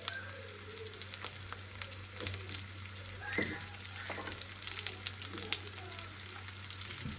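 Shallots, red chilies and garlic frying in oil in a pan, a steady sizzle with many small crackling pops, over a low steady hum. Light knife cuts on a wooden cutting board as shrimp paste is sliced.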